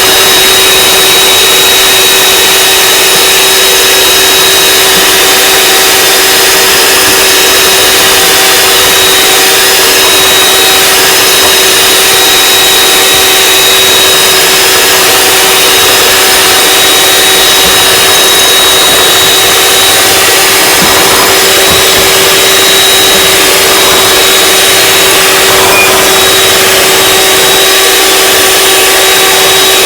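Electric mixer running steadily at one speed, a loud constant motor whine with a whirring hiss, whipping macaron meringue that has not yet thickened to stiff peaks.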